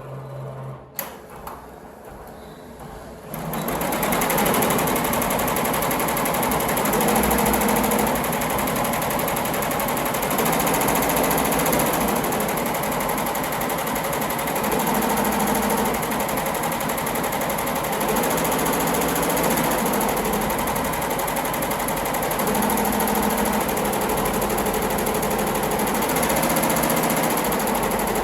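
Yoshiko computerized embroidery machine starting up about three seconds in, then stitching steadily at speed. There is a single click about a second in.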